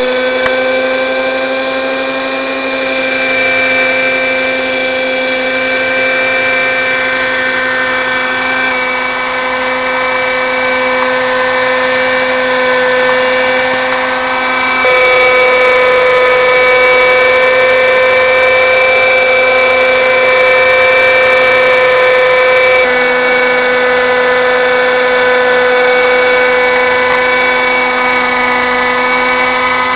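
Engine-powered RC helicopter (a Nexus in a scale Ecureuil body) running, its small engine and rotors giving a steady high-pitched whine. The pitch shifts abruptly three times, about 9, 15 and 23 seconds in.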